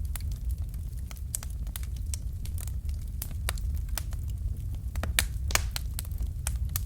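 Fire in a fireplace crackling: irregular sharp pops and snaps over a steady low rumble, with two louder pops about five seconds in.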